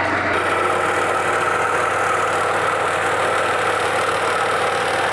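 Portable band sawmill's engine running steadily under a constant hum; about a third of a second in, a higher hiss joins it.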